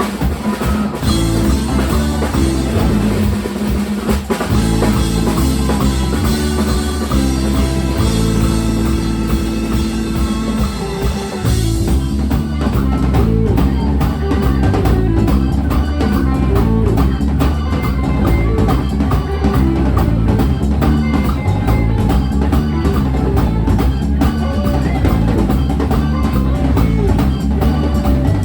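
Band music played on drum kit and guitar with a steady beat. About twelve seconds in the arrangement changes to a tighter, evenly pulsed groove.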